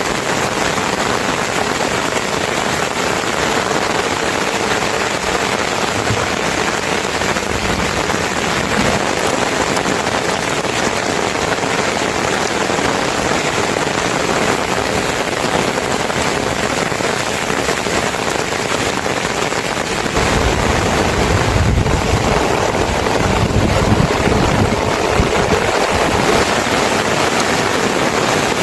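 Steady, heavy rainfall: a dense, even hiss of rain, growing a little louder with added low rumble about two-thirds of the way through.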